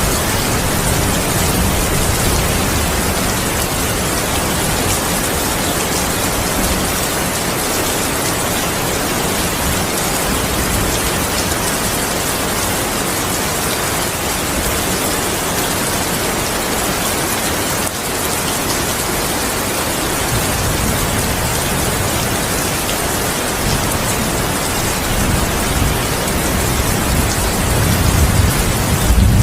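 Steady heavy rain with low rolling thunder rumbling at times, building toward the end.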